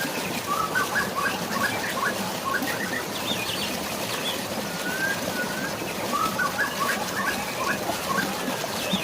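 A songbird singing a repeated phrase, a short sliding whistle followed by a quick run of chirps, twice, over a steady rush of flowing water and rain.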